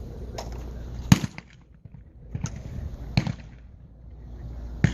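Shotgun shots on a trap range: four reports, the loudest about a second in, strong ones about three seconds in and just before the end, and a fainter one in between.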